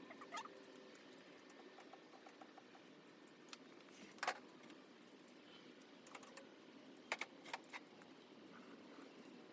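Faint, scattered clicks and taps over low background noise, like small parts or tools being handled; the sharpest click comes about four seconds in.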